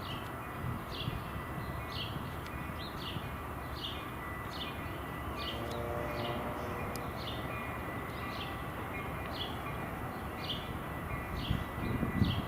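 A bird calling over and over: short, high chirps that drop in pitch, a little more than once a second, over a steady low outdoor rumble.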